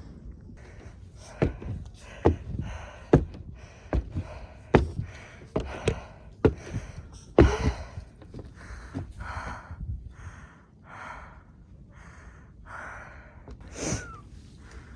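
A Pomeranian's short snorting, sniffing breaths, mixed with a series of sharp knocks and taps that are loudest in the first half.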